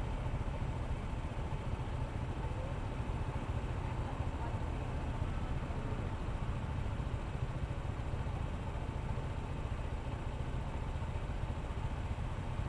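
Honda ADV160 scooter's single-cylinder engine running steadily, heard as an even low rumble.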